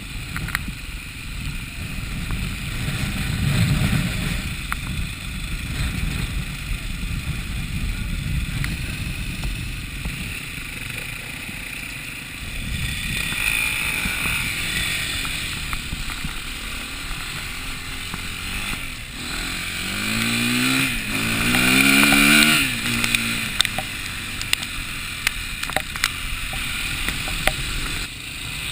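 A motor running under steady low rumbling noise. About two-thirds of the way in, its pitch rises twice in quick succession, as when revved.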